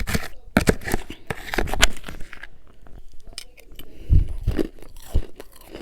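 Close-up chewing of refrozen freezer frost and humidifier frost: a dense run of crisp crackling crunches for the first couple of seconds, then a few heavier, duller chomps later on.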